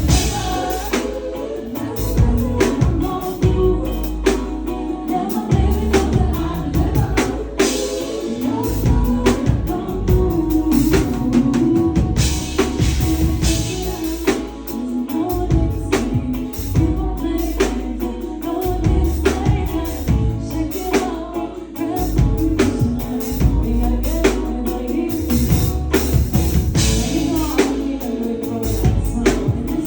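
Live pop/R&B performance: a woman singing over a backing track with heavy bass and a steady drum beat, as heard through a concert sound system.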